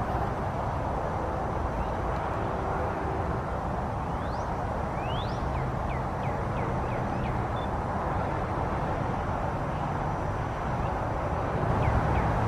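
Steady outdoor background noise with a low rumble, over which a small bird chirps a quick run of short notes about four seconds in and again near the end.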